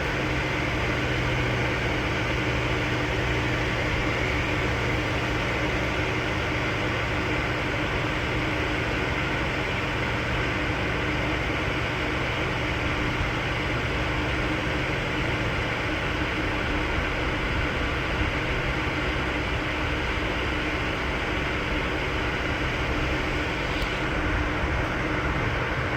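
Steady mechanical hum and rushing noise of a running vehicle, even and unchanging throughout.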